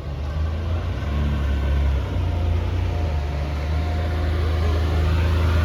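A car engine running with a deep, steady low rumble that grows louder over the first couple of seconds.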